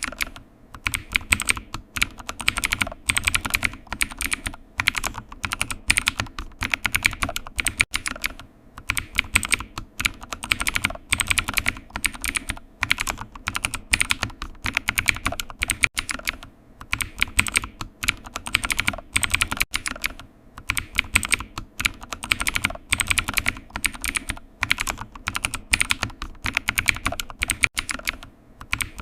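Computer keyboard typing: rapid key clicks in runs of a second or two, broken by brief pauses.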